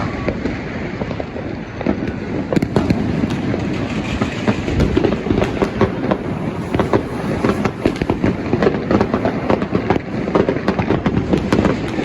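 Fireworks and firecrackers going off, a dense run of cracks and bangs that grows thicker about two seconds in.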